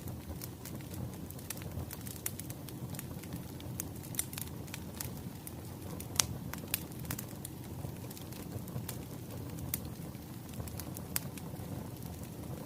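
Wood fire crackling: a steady low rumble of flames with irregular sharp pops and snaps, the loudest pop about six seconds in.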